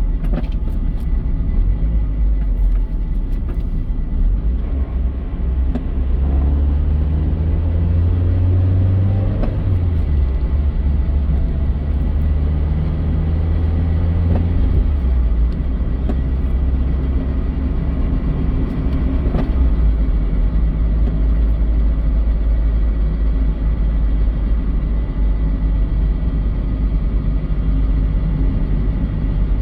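Mazda Eunos Roadster NA8C's 1.8-litre four-cylinder running with heavy low rumble as the car drives; the engine note climbs for a few seconds, drops about ten seconds in, and settles lower later on. A faint steady high tone runs underneath, in a car the owner says is making a rubbing, dragging noise.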